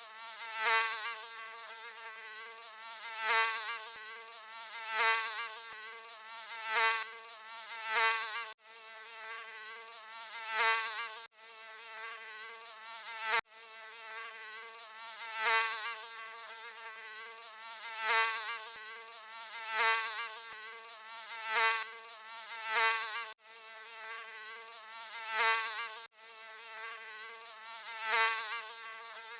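Mosquito buzzing, a continuous high, wavering whine that swells loud every second or two as if flying past the ear and fades back between passes.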